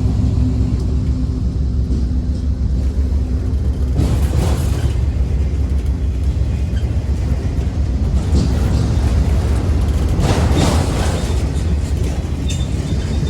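Freight train rolling past with a steady low rumble, and rolling noise swelling briefly a few times.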